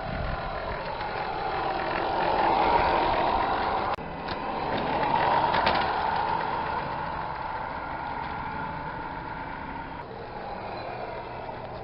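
A 1/14-scale Tamiya Scania Highline RC truck running, its sound swelling and fading twice.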